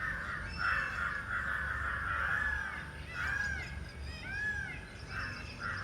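Birds calling: harsh, repeated calls throughout, with clear arching chirps about three and four and a half seconds in.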